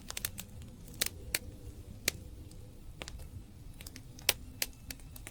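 Campfire crackling: burning wood giving off irregular sharp pops and snaps, one louder snap about four seconds in.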